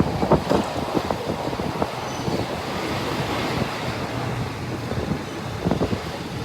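RHN diesel railcar running along the track, heard from on board: a steady rumble of engine and wheels with wind rushing past.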